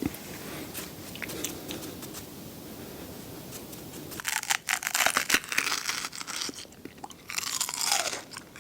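Close-miked eating. Soft chewing for about four seconds, then a run of loud, crisp crunching bites into waffle ice cream.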